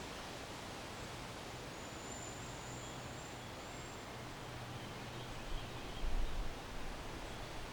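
Steady backyard ambience of wind moving through trees, an even rustling hiss. A brief low rumble swells about six seconds in.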